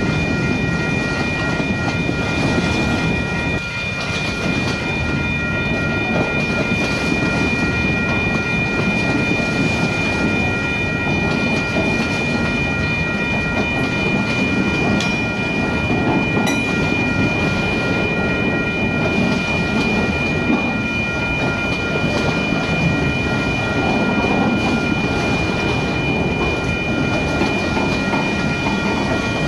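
Freight train of autorack cars rolling past at a crossing: a steady rumble and clatter of steel wheels on the rails. Several steady high ringing tones sit over it throughout.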